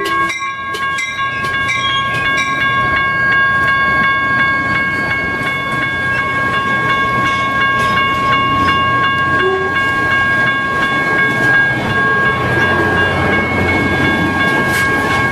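Caltrain bilevel commuter cars rolling past as the train pulls out, a steady rumble and clatter of wheels on rail. Over it, the grade crossing's warning bell rings on without a break as its lights flash.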